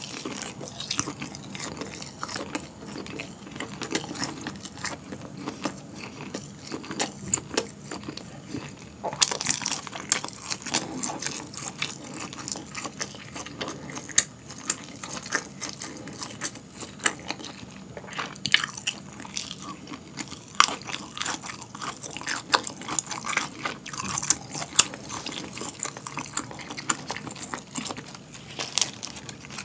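A person chewing soft boiled pork (suyuk) close to the microphone: wet, smacking mouth sounds with many sharp little clicks, going on without a break.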